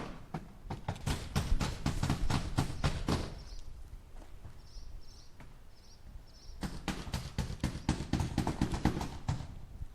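Hammer striking nails into wood in two quick runs of blows, several strikes a second, with a quieter pause of about three seconds between them.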